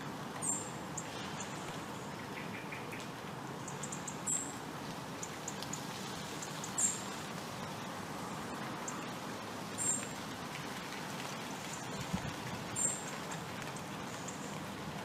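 Short, very high chirps, five of them about three seconds apart, from a small bird, over a steady background hiss.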